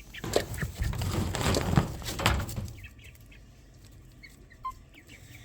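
Loud rustling and handling noise for nearly three seconds as a cover is worked over a brooder, then faint short peeps from baby quail chicks.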